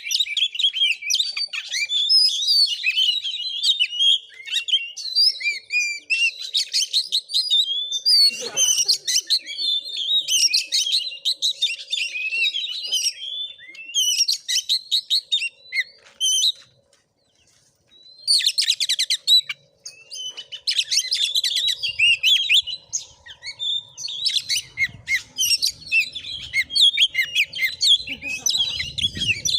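Oriental magpie-robin (kacer) singing a fast, varied song of chirps, trills and whistles, broken by a pause of about two seconds a little past the middle.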